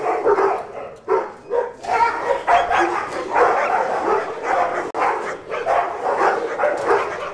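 Recorded barking of a pack of dogs, played back over speakers, with overlapping barks going on without a break.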